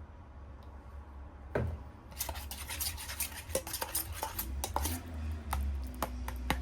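Light clattering and clinking of small hard objects, with a dense run of quick clicks and scrapes through the middle, over a steady low hum.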